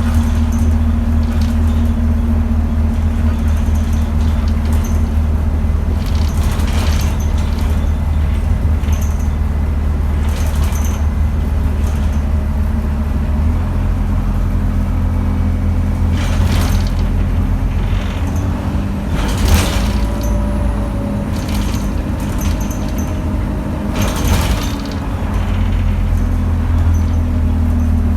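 Alexander Dennis Enviro200 single-deck bus heard from inside, its diesel engine and drivetrain running with a steady low hum under way, the hum's pitch shifting about halfway through. Several short rattles or knocks sound over it.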